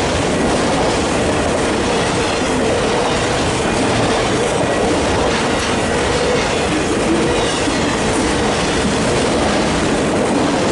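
CPKC freight train's cars rolling past, a steady loud clatter of wheels on rail with a steady tone near the middle of the range running through it.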